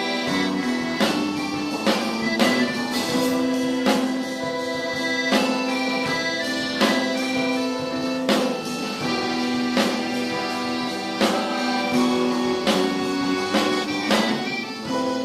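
A rock band playing live: held, droning chords over drum and cymbal hits that land about every one and a half seconds.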